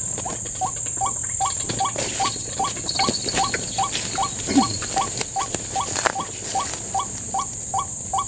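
White-breasted waterhen call, short rising notes repeated evenly about two or three times a second, over a steady high drone of insects, with some rustling and a few knocks partway through.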